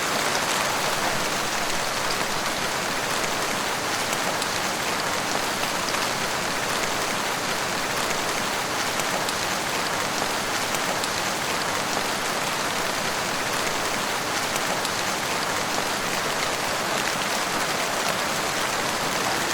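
Steady rain falling: an even hiss with the fine patter of many individual drops, unchanging throughout.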